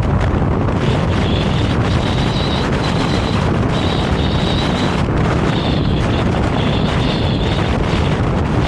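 Vario low-floor tram running along the track, a loud steady rumble with a thin high whine that comes in about a second in and breaks off and returns several times.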